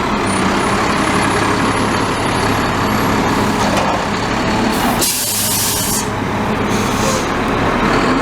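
Front-loader garbage truck's diesel engine running steadily, with a loud air brake hiss about five seconds in and a shorter, fainter hiss soon after.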